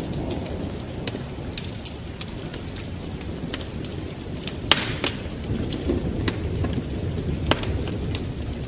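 Wood fire crackling in a fireplace: irregular sharp pops and snaps, two louder ones about halfway through, over a steady low rumble with rain.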